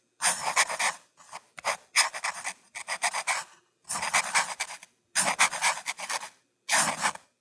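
Biting wind buffeting the microphone in repeated gusts: about six loud rushing bursts, each cut off abruptly, with brief near-silent gaps between them.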